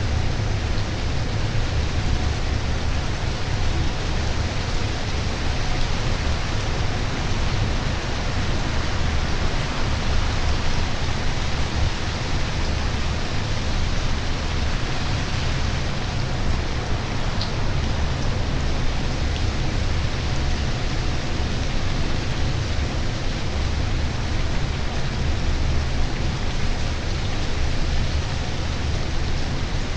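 Steady rain falling, an even hiss with no distinct drops standing out, over a low, fluctuating rumble.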